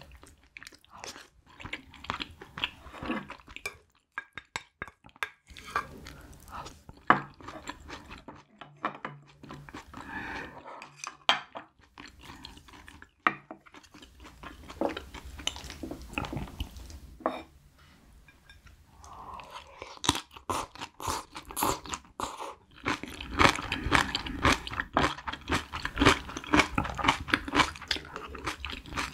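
Close-miked mouth sounds of eating: chewing and crunching food in many short, wet strokes, growing denser and louder in the last third.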